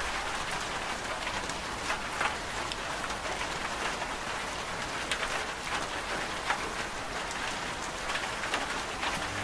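Steady rain falling on a surface, with many distinct drops hitting through the patter.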